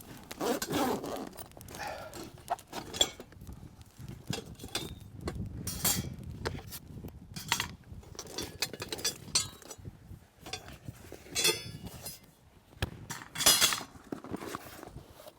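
Irregular clinks and knocks of camp cookware and utensils being handled.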